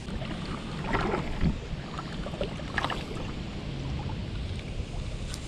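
Kayak on the water: a steady low wind rumble on the microphone with water lapping at the hull, and a few light knocks or splashes, the loudest about a second and about three seconds in.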